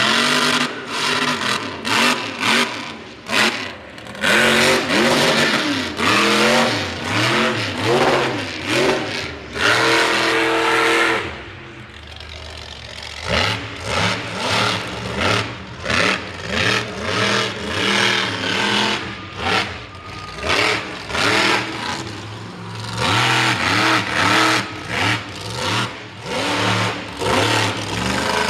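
Mega truck engine revved in short repeated bursts, its pitch sweeping up and falling back again and again, with a brief lull about twelve seconds in.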